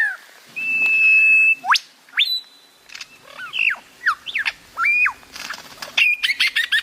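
A bird singing clear whistled notes: a held whistle, a sharp upward sweep, several short slurred notes, then a quick run of repeated notes near the end.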